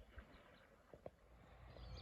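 Near silence outdoors, with a few faint, soft taps.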